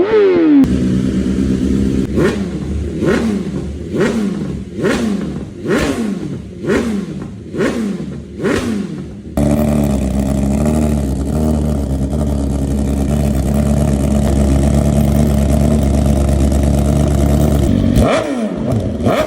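BMW S1000RR inline-four engine revved in a series of quick blips, each rising and falling in pitch, about one a second. After an abrupt change it holds a steady, unchanging engine note for about eight seconds. Near the end it gives way to falling pitch sweeps.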